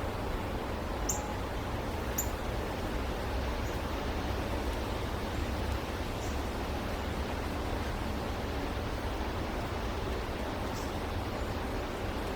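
Steady rushing background noise with a low rumble underneath. Over it come about five brief, high-pitched bird chirps, scattered a second or more apart.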